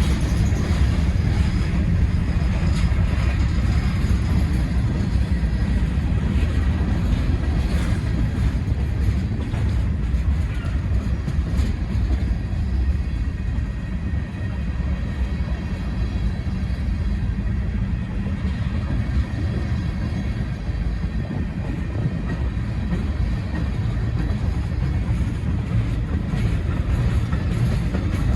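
Freight train rolling past, its cars giving a steady, heavy rumble of wheels on rails.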